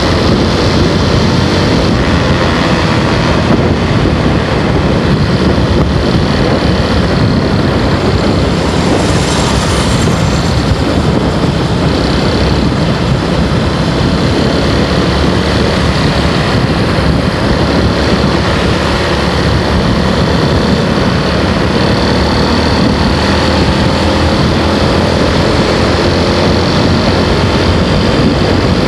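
Small motorbike riding along at speed: a loud, steady rush of wind noise with the engine running underneath, its note rising slightly near the end.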